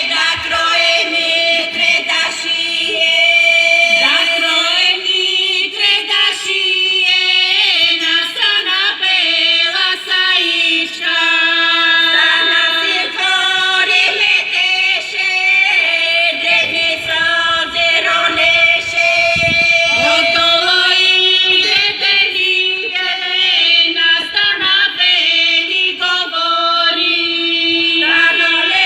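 A Bulgarian women's folk singing group singing together, one part holding a steady drone while the melody moves above it.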